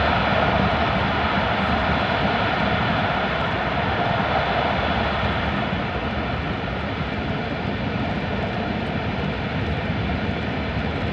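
Steady cabin noise of an E5 series Shinkansen train running through the Seikan Tunnel: a dense rumble of wheels on rail and rushing air, heard inside the passenger car. It eases slightly about halfway through.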